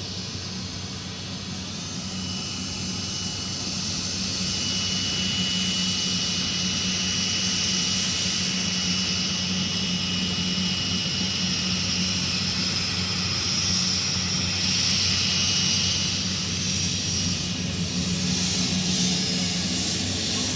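Jet airliner's engines running as the plane passes, growing louder over the first few seconds and then holding, with a steady high whine over the roar.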